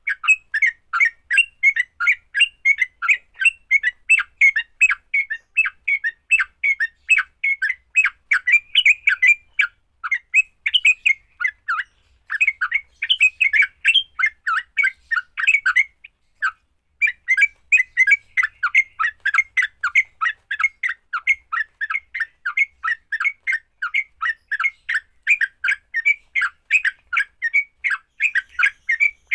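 Yellow-vented bulbul (trucuk) giving its fighting call, a rapid, unbroken run of short chattering notes, several a second, with a brief break about sixteen seconds in.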